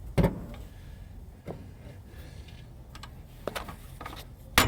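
A rock hammering on a bolt on a car's starter: a sharp metallic knock just after the start, a few faint taps, then another hard knock near the end.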